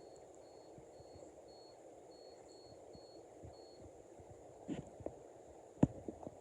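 Toaster at work: faint short high beeps repeat about twice a second and stop about four seconds in. A few clicks follow, then one sharp clack near the end.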